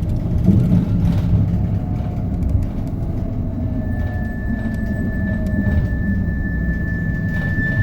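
Hino Poncho small bus heard from inside while driving: a steady low rumble of the diesel engine and road noise. About four seconds in, a thin, steady high whine joins and holds.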